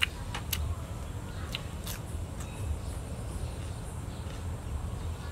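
A person chewing and eating, with several sharp crunchy clicks from the mouth in the first two or three seconds, over a steady low rumble.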